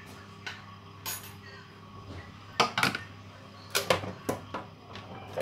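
Metal kitchenware clattering: a few separate sharp clinks and knocks, one with a brief high ring about a second in and the loudest ones in the middle.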